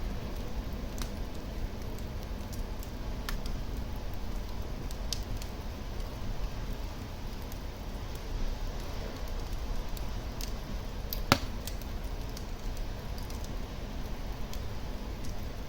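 Wood fire burning in a fireplace: a steady low rumble of flames with scattered small crackles, and one loud sharp pop about eleven seconds in.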